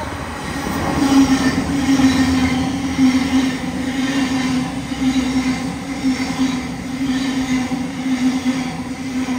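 A train running past close by. It has a steady low hum and a regular beat from the wheels a little more than once a second. It grows louder in the first second and stays loud until it passes.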